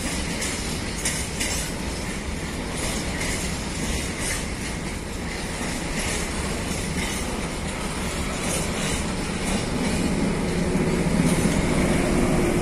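Freight wagons rolling out over rail joints with irregular clacks, while an SM42 diesel shunting locomotive runs up and passes close by, its diesel engine growing louder over the last few seconds.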